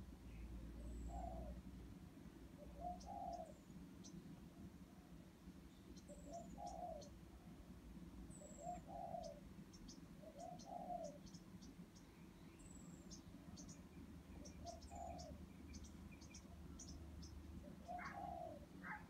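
Faint birdsong: a low call repeated every second or two, with short high chirps and ticks, over a steady low hum.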